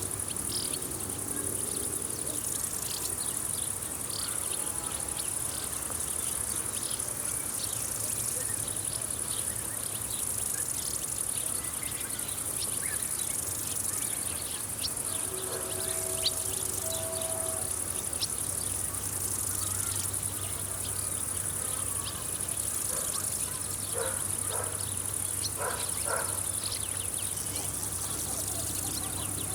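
Steady, high-pitched chorus of stridulating summer field insects, continuous throughout, with many short, scattered chirps above a faint low hum. A few brief lower tones come and go about halfway through and again near the end.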